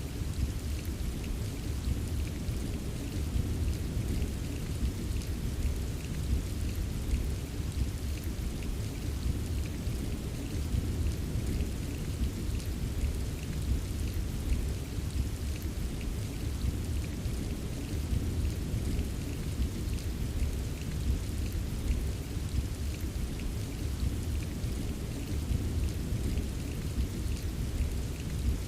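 Steady rain ambience: an even wash of rainfall, heaviest in the low end, with many small drop ticks scattered through it.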